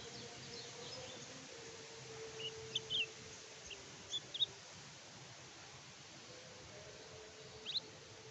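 Kecial kuning (a white-eye) giving short, high, scattered chirps, clustered a few seconds in and again near the end, over a faint steady hiss and a low steady tone.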